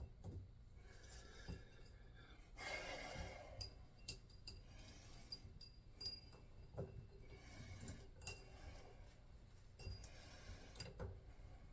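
Light metallic clinks and handling knocks of tools and faucet parts during a tub faucet repair, scattered and irregular, with a short hiss about three seconds in.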